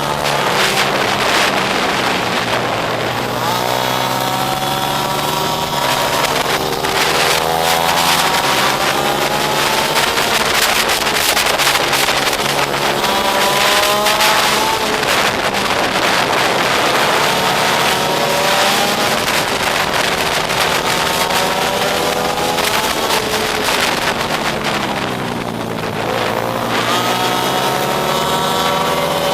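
Pit bike engine revving hard while being ridden, its pitch climbing over a few seconds and then dropping again, over and over as it accelerates and backs off or shifts.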